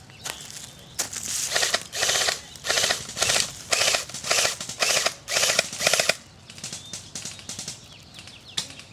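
Airsoft gun firing on full auto: about ten short bursts of rapid shots in five seconds, starting about a second in, followed by a few faint scattered clicks.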